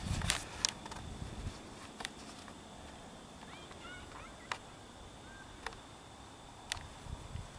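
Quiet outdoor ambience with a few faint bird chirps around the middle, a faint steady high tone, and several sharp clicks from the camera being handled as it is turned around.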